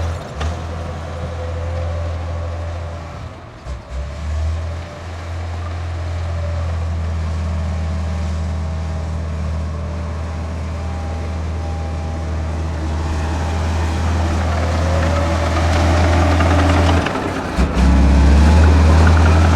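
Heavy earthmoving machinery's diesel engine running steadily, with brief dips in level about four seconds in and again near the end, and louder over the last couple of seconds.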